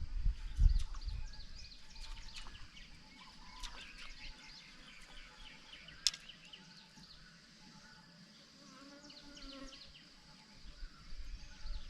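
Outdoor wildlife chorus of many short, high chirping calls, with one sharp click about six seconds in. Low rumble on the microphone near the start.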